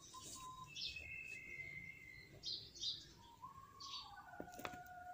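Faint bird calls: long steady whistled notes at several different pitches, one after another, with short chirps in between.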